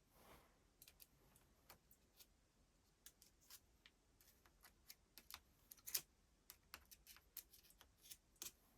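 Faint, irregular clicks and light taps of small hard parts being handled, with one sharper click about six seconds in.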